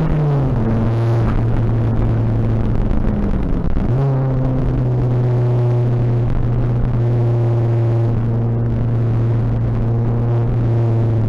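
Tuned Seat Ibiza TDI turbodiesel engine heard from inside the cabin under way. Its pitch drops right at the start and dips again about four seconds in, as at gear changes, then holds steady.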